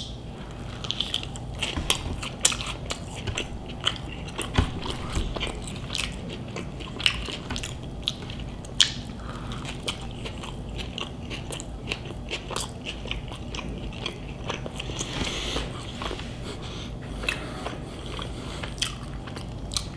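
A person biting and chewing a mouthful of fast food, with many small mouth clicks all through the chewing.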